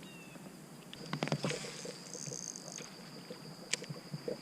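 Kayak on a river: a cluster of small knocks and clicks about a second in and another short click later, over a faint steady high-pitched tone.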